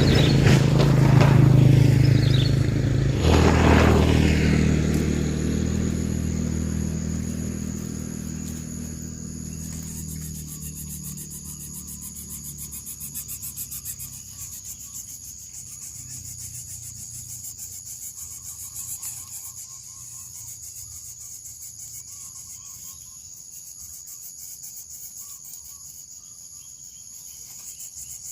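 A motor vehicle engine passes close and loud in the first few seconds, then fades slowly into the distance. After that, insects keep up a steady high buzzing.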